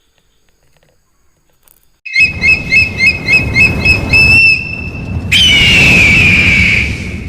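Loud, bird-like chirping over a rumbling noise that starts abruptly about two seconds in: a fast run of chirps, about five a second, then a long falling whistle.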